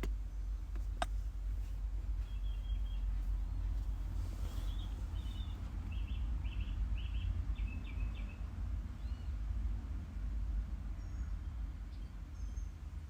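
A bird calling in a series of short, quick chirps, several a second, for a few seconds, with a few higher chirps near the end. A steady low rumble lies underneath.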